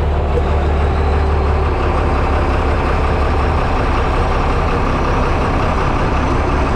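Tractor engine idling steadily, a heavy, even low hum.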